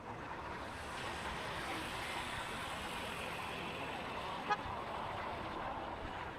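Busy motorbike street traffic heard from a moving motorbike: a steady wash of engine and road noise, with a single short sharp click about four and a half seconds in.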